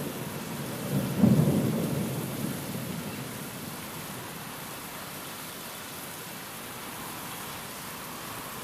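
Steady rain falling, with a clap of thunder about a second in that peaks sharply and rumbles away over the next two seconds.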